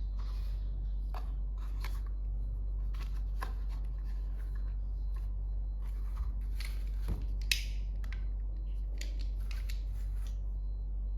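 Scattered light clicks and rustles of hands handling small plastic toy pieces, over a steady low hum.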